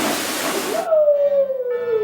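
A rushing hiss that cuts off abruptly under a second in, followed by one drawn-out spooky howl that slowly falls in pitch: a cartoon Halloween sound effect.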